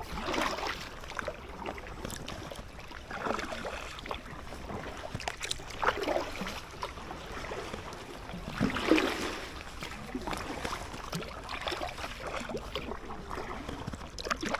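Kayak paddle strokes in the water, a swish and splash every two to three seconds, over a steady low background rumble.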